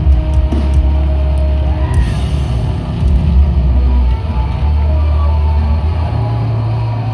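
Live heavy metal band playing loudly, with heavy sustained low guitar and bass notes.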